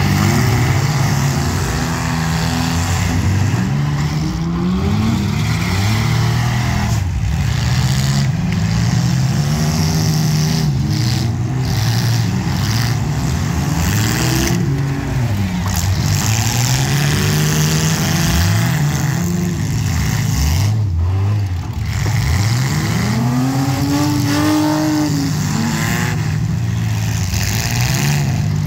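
Engines of several compact demolition derby cars running and revving, their pitch rising and falling over and over as the cars move about the arena.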